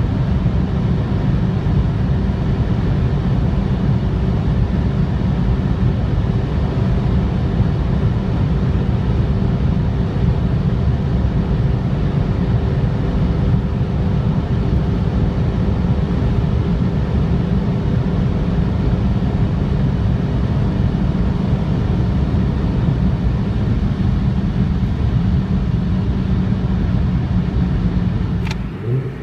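A car driving at a steady speed: a continuous low rumble of engine and road noise with a faint steady hum, the revs neither rising nor falling. A few clicks and a change in the sound come right at the end.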